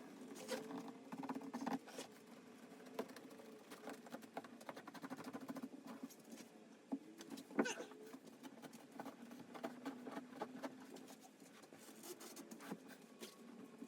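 Faint scratching, rustling and small crackles, with a sharper click about halfway through, as old upholstery covering is trimmed and pulled away from a glued-down molded foam seat.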